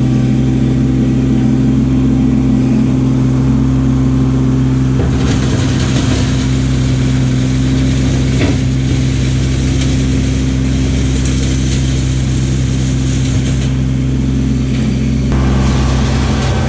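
Kubota LX2610 compact tractor's three-cylinder diesel engine running at a steady speed as the tractor travels. A hiss joins about five seconds in and drops away near the end.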